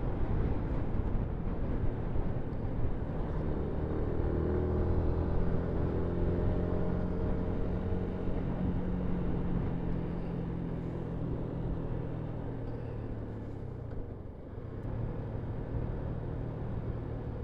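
Yamaha MT-125's single-cylinder 125cc four-stroke engine running on the move, its pitch falling slowly through the middle as the bike eases off, with a brief dip about fourteen seconds in before it settles steady again.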